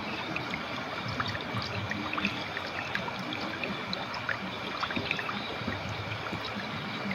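River water flowing steadily, a constant rush scattered with many small bubbling and trickling notes.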